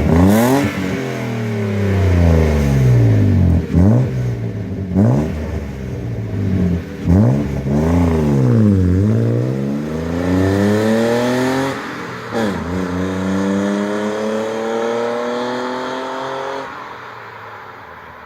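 BMW E34 520i's M50 2.0-litre 24-valve inline-six through a lightly modified rear muffler: several quick revs up and down, then a long pull climbing in pitch, a sudden drop in revs about twelve seconds in like a gear change, and a second climb before it dies away and grows fainter.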